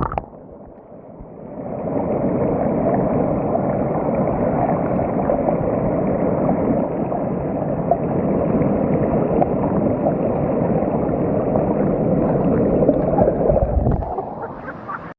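Waterfall water rushing in a steady, dull noise with little high end, cutting off suddenly near the end.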